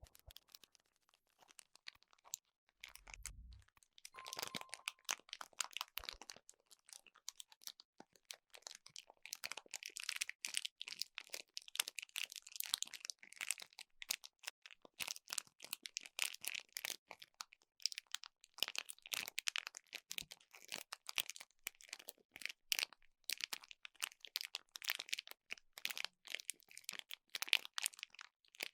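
Close-miked crinkling and crackling of crinkly material being handled: a dense, uneven run of small crackles that goes on throughout, with a brief low thump about three seconds in.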